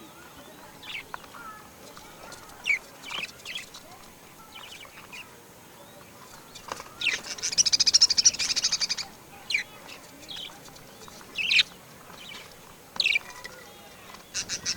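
Birds chirping: scattered short high calls and sweeping notes, with a loud, fast trill of rapidly repeated high notes lasting about two seconds near the middle.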